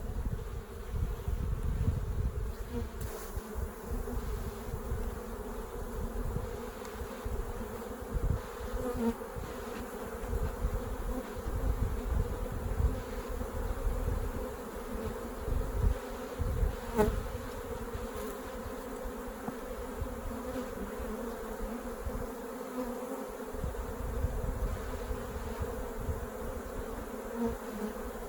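Honey bees buzzing steadily around an opened hive, a constant hum at one pitch. Irregular low rumbles run underneath, and there is a single sharp click about 17 seconds in.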